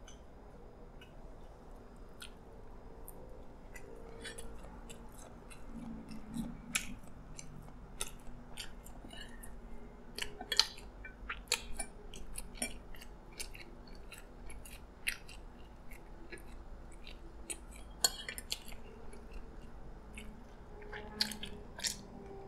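Close-up chewing of fried chicken and rice, with scattered sharp clicks and scrapes of a fork and spoon on a plate.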